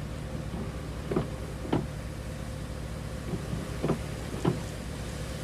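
A vehicle idling steadily, with pairs of short sweeping sounds about half a second apart, twice, a few seconds apart.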